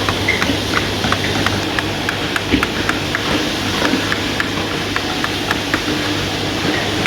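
Hand chisels being struck with mallets on wood, a quick irregular patter of sharp taps from several carvers at once, over a low steady hum.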